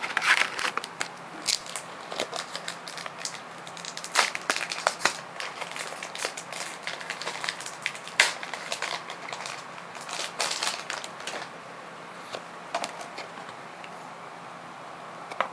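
Booster pack wrapper being torn open and crinkled by hand, an irregular run of crackles and rustles.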